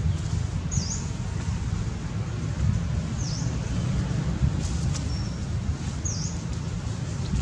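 A bird repeating a short, high, dipping call three times, about two and a half seconds apart, with a brief thin whistle about five seconds in, over a steady low rumble.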